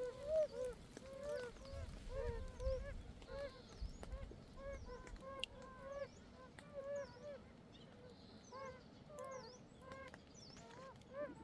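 A breeding chorus of oriental fire-bellied toads: several calling at once with short, soft, arched notes that overlap, about two to three a second. Faint quick high chirps sound over them.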